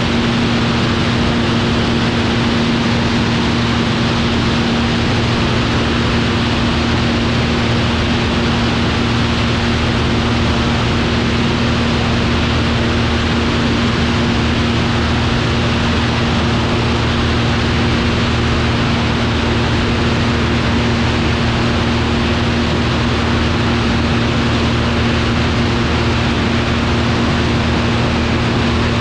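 Velocity V-Twin aircraft running steadily in flight: a constant engine and propeller hum at an unchanging pitch over loud, even air noise.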